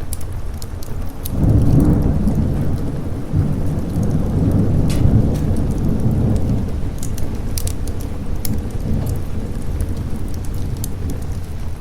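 A long roll of thunder swells in about a second in, is loudest over the next few seconds and then slowly dies away, over a steady downpour of rain. Scattered sharp crackles from a wood fire sound throughout.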